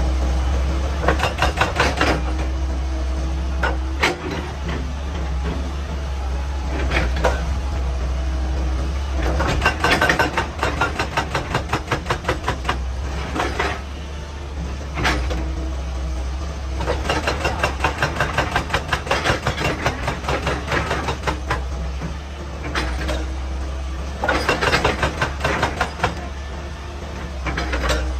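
Excavator's diesel engine running steadily under bursts of rapid, evenly spaced hammering on rock, each burst lasting a few seconds.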